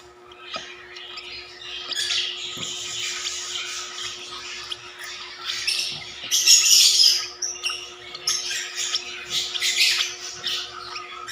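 African lovebirds squawking and chattering in shrill bursts, loudest about two seconds in and again around six to seven seconds, over a steady low hum.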